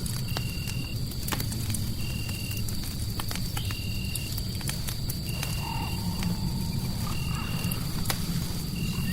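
Crackling fireplace ambience: scattered sharp pops and crackles over a steady low rumble. A faint steady high tone runs beneath, and a short even chirp repeats about every second and a half, six times.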